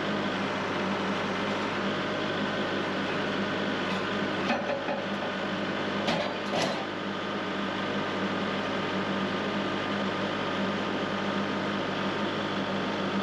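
An engine idling with a steady hum, with a few light knocks about four and a half and six seconds in.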